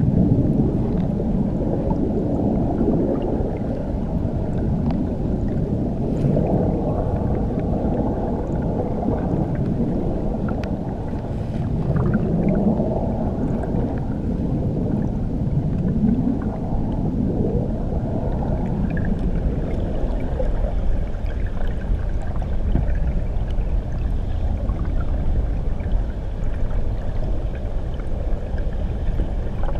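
Water churning beneath a waterfall, heard through an underwater microphone: a steady muffled rush with almost no treble. Short rising swoops stand out a few times near the middle.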